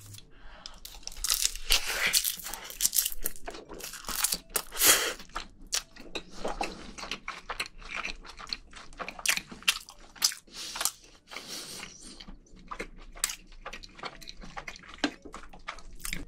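Close-miked chewing of a mouthful of rice mixed with soy-marinated raw crab and wrapped in roasted seaweed, with irregular crisp crunching and crackling.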